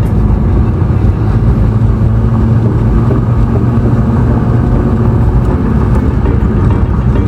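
Vehicle engine running steadily under way on a climbing road, a continuous low hum with road and wind noise.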